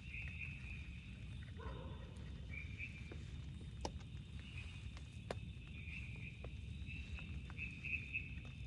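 Forest night ambience: short chirping calls repeating again and again over a steady low rumble, with a few sharp ticks and one brief lower call about two seconds in.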